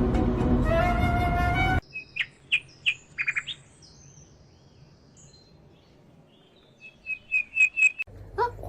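A loud, rushing noise with a rising tone cuts off suddenly about two seconds in. A small bird chirping follows, with scattered short high notes, then a quick run of chirps near the end.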